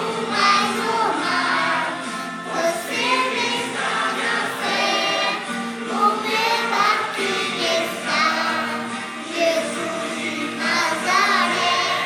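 A Christian song with voices singing over a steady instrumental accompaniment.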